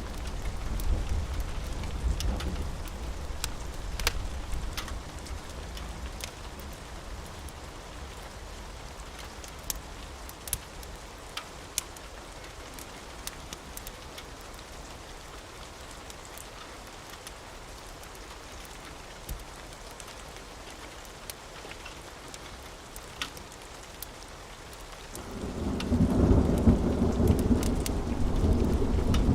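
Steady rain with rolling thunder. A rumble fades away over the first few seconds, and a loud new peal of thunder swells in near the end. Sharp crackles from a burning wood fire are scattered throughout.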